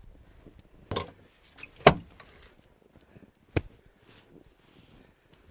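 Sharp clunks and knocks from the KAMAZ 4310's tilt cab being lowered and secured: four separate hits, the loudest about two seconds in.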